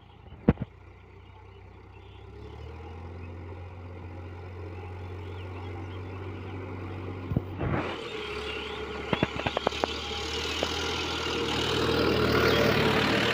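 Tractor diesel engine running steadily and growing louder, as if coming closer, with a sharp knock early on and a quick series of clicks and rattles partway through.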